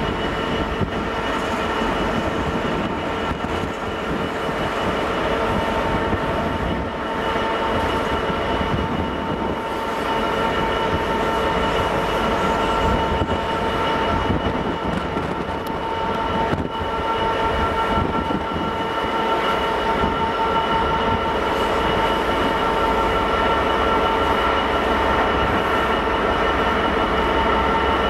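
A GWR High Speed Train's Mark 3 coaches rolling past on the track, a steady rumble with a high, steady whine over it.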